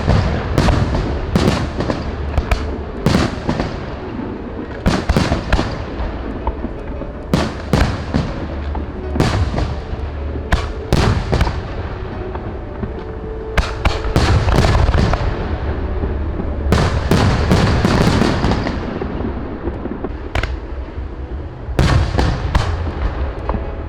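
Fireworks display: aerial shells bursting in quick clusters of sharp bangs and crackles over a continuous low rumble.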